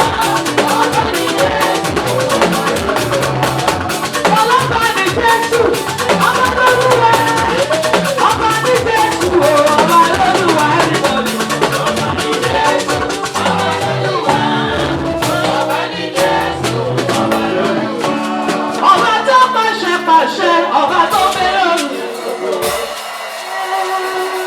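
Live gospel praise band playing, with drum kit and percussion under singing. The bass drops away briefly near the end.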